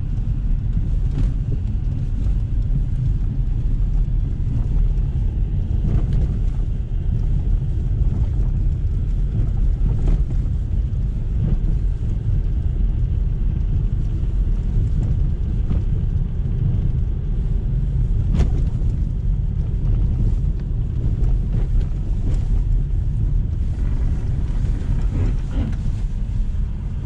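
Inside the cabin of a LADA Vesta SW Cross driving fast over a rough road: a steady low rumble from the tyres and suspension, with a few soft, dull thumps as the front struts work. The updated SAAZ struts absorb the bumps with no knocking.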